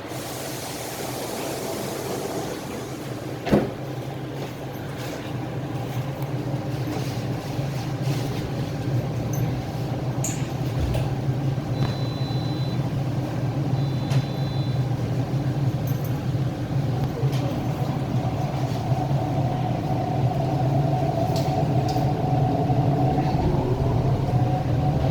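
Hyundai Rotem R-Train electric multiple unit running, its steady low hum growing louder as it gathers speed, with a rising motor whine near the end. There is a single thump about three and a half seconds in, and two short high beeps around twelve and fourteen seconds in.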